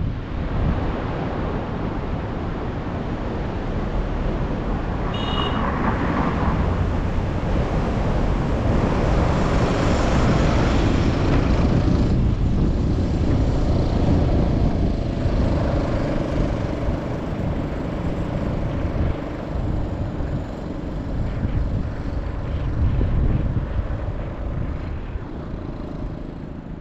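A vehicle driving: steady engine and road noise with a low rumble, and a brief high tone about five seconds in.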